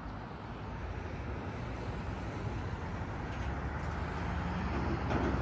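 Norfolk Southern manifest freight train rolling past, a steady rumble of railcars that slowly grows louder.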